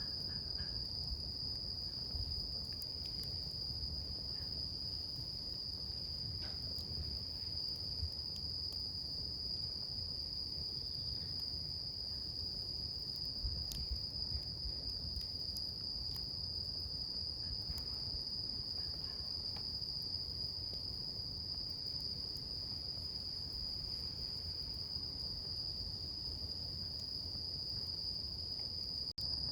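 Crickets trilling in one unbroken, steady high note over the low hiss and rumble of a campfire, with a few faint crackles from the burning wood.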